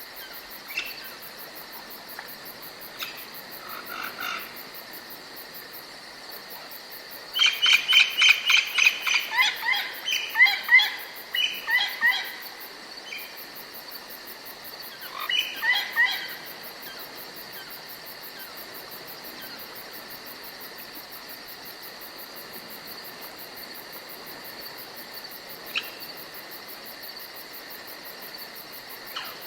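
Forest ambience: a steady, high insect drone like crickets runs throughout. Over it a songbird sings a quick run of rapid chirps about a quarter of the way in, and a shorter phrase a little later, with a few single chirps scattered around.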